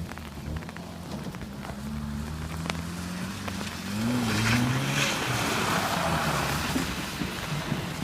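Dodge Dakota pickup's four-cylinder engine revving, its pitch climbing from about three seconds in and falling away after about five, as the truck is thrown into a drift. A loud hiss from the tyres sliding on wet pavement comes in about halfway and fades near the end.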